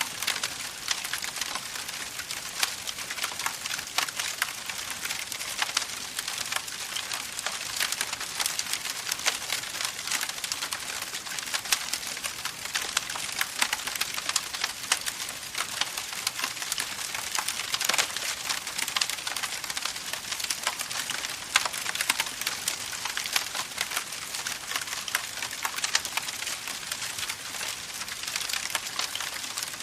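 Wood campfire crackling steadily, a dense run of small pops and snaps over a hiss.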